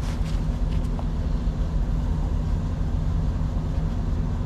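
A vehicle engine idling steadily, a low even rumble, with a few faint clicks in the first second from the hose fitting being handled.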